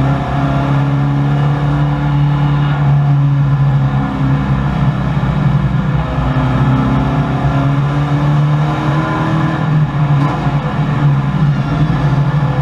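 1984 Chevrolet Camaro race car's V8 engine at racing speed, heard from inside the cabin, running hard at fairly steady revs with small rises and falls in pitch.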